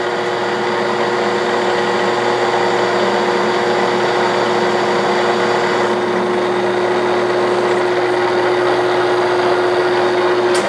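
1967/68 Clausing Colchester 1340 metal lathe running with its insert cutter taking a turning pass on a metal part, a steady hum with one strong even tone. The tone stops near the end as the cut finishes.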